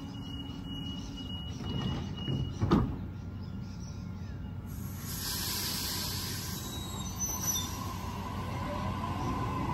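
Double-deck electric suburban train at a platform: a high steady door-warning tone stops about two and a half seconds in, and the doors shut with a sharp thud. A loud hiss of air follows about two seconds later, then the train starts to pull away, with a faint rising motor whine and a growing rumble.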